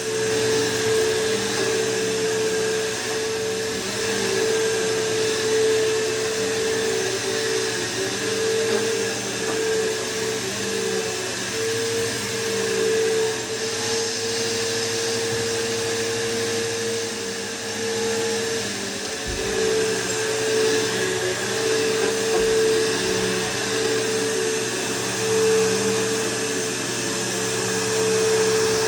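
Bissell PowerForce bagless upright vacuum cleaner running steadily over carpet, its motor holding one even tone over the rush of air, with a brief low bump about two-thirds of the way through.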